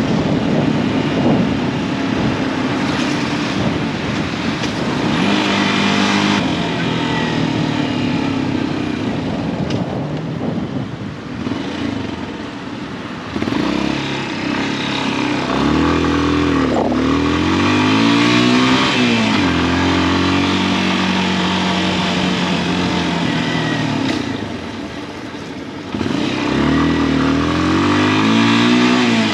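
Yamaha XTZ 250 single-cylinder motorcycle engine under way, its pitch rising and falling as it accelerates and slows through the gears. The engine eases off twice, about twelve and twenty-five seconds in, before pulling again.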